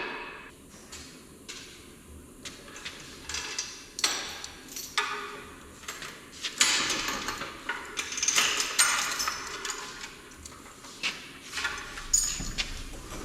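Metal and wood parts being handled and shifted on a workshop floor: an irregular series of knocks and clanks mixed with longer scraping sounds.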